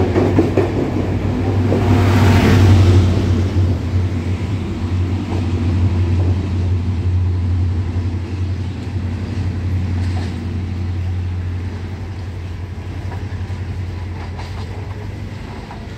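Class S13 diesel multiple unit passing close and drawing away: a loud rumble of wheels and engine in the first few seconds that then slowly fades, over a steady low diesel drone.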